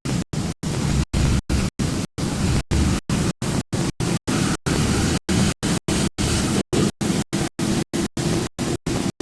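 Steady rushing noise, strongest in the low end, cut by brief dropouts to complete silence about three to four times a second: a glitching, chopped-up recording.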